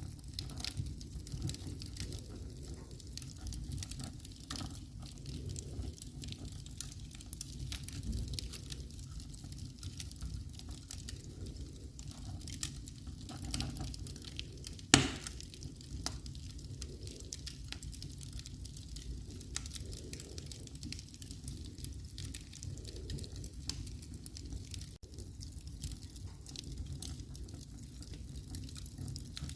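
Wood fire crackling in a fireplace: frequent small pops and snaps over a steady low rumble, with one sharp, loud pop about halfway through.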